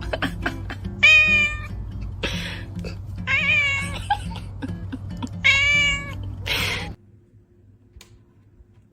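A cat meowing three times in long calls that waver in pitch, with short breathy bursts in between, over background music. The sound cuts off suddenly about two seconds before the end.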